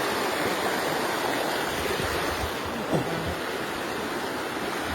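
Steady rush of flowing water, a stream running over rocks, with a few faint low thumps.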